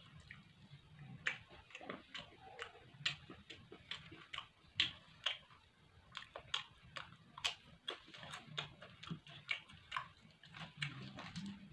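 Close-up eating sounds: a person chewing, with irregular wet mouth clicks and smacks several times a second, some louder than others.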